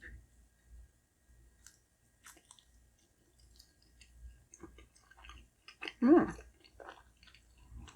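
Close-miked chewing of a bite of pan-fried turnip cake: soft, scattered mouth clicks and smacks, with a short hummed "mm" about six seconds in.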